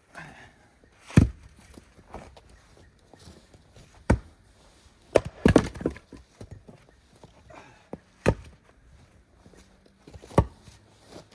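Firewood being chopped: about six sharp blade strikes on wood, one to three seconds apart, two of them in quick succession near the middle. The wood is wet and frozen together from an ice storm.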